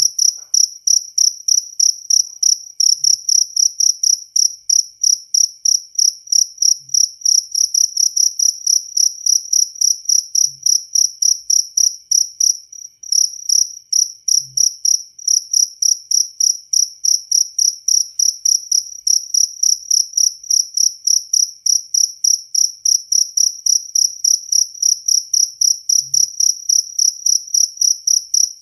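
Jaliteng field cricket chirping: a steady, high-pitched run of quick, evenly spaced chirps, with a brief break about halfway through.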